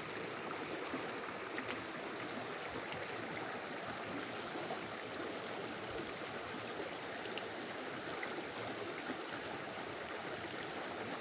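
Shallow stream running steadily over rocks, an even rush of flowing water.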